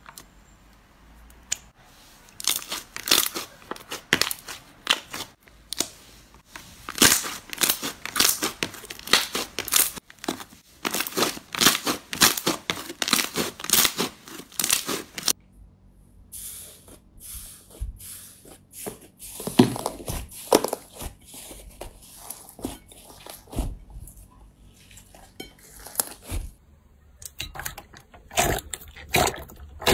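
Crunchy slime being squeezed and pressed by hand, giving a dense run of crackling and popping. About halfway through, the crackles turn sparser, with a high hiss above them.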